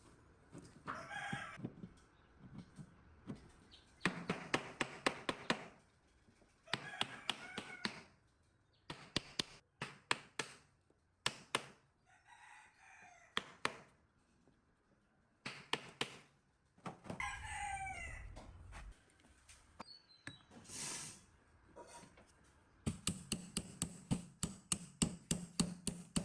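Runs of sharp taps or clicks, the loudest sounds, with a chicken crowing and clucking at intervals in the background. Near the end a steady low hum runs under a fast, even string of clicks.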